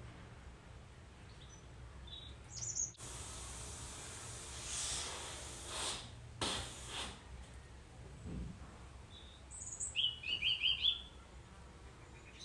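Small birds calling: a few short high chirps, then a quick run of about five rapid notes about ten seconds in, the loudest sounds. A stretch of rushing noise comes a few seconds in.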